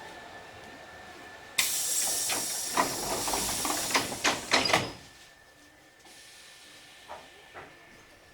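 Compressed air hissing from a Hankyu 3300 series train's pneumatic door engines as the doors close, with several knocks as the door leaves shut; the hiss stops sharply after about three seconds.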